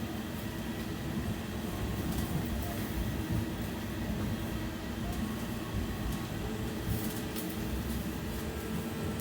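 Inside a BKM 60102 tram running along the track: a steady low rumble of wheels and running gear, with a few sharp clicks. About two-thirds of the way through, a steady motor whine comes in.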